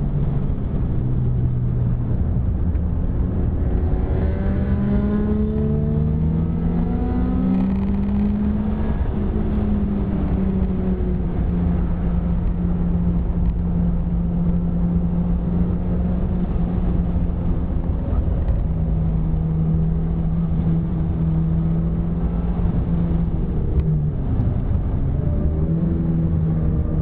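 Mitsubishi Lancer GSR's 2.0-litre 4G63 four-cylinder engine at racing pace, heard from inside the cabin: the revs climb in several steps through the gears in the first few seconds, then hold at one steady pitch for a long stretch, with a brief dip near the end. A constant road and tyre rumble runs underneath.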